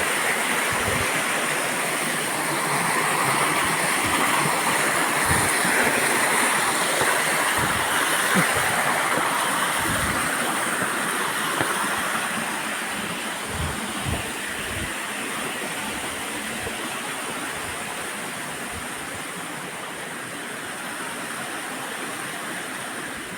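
Waterfall water rushing steadily, growing fainter over the second half, with occasional short low thumps.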